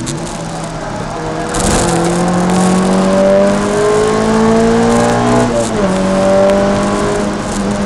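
In-cabin sound of a Peugeot 306 Rallye's 2.0-litre four-cylinder engine pulling hard on track: a short thud about a second and a half in, then the revs climb steadily for about four seconds. Near the end an upshift drops the pitch sharply and the engine pulls on.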